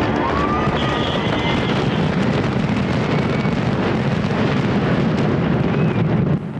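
Fireworks display going off: a dense, continuous crackling and rumbling of bursts, with a whistle rising in pitch about a second in and a few fainter whistles after.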